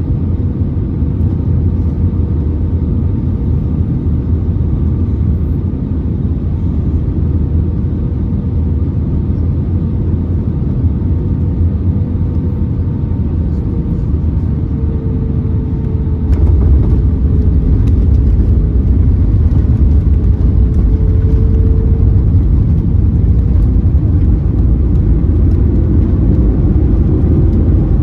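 Airbus A320neo cabin noise: a steady low rumble of the engines and airflow with a faint hum that dips in pitch midway. The rumble gets louder, with light rattling, about sixteen seconds in.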